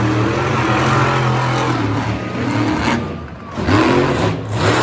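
Monster truck engine revving hard. The pitch sags and the level dips about three seconds in, then the engine climbs back up twice near the end.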